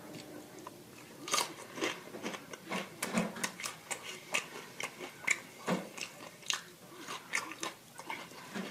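Close-miked mouth sounds of someone chewing fast food, with sharp wet clicks and smacks coming irregularly, a few a second.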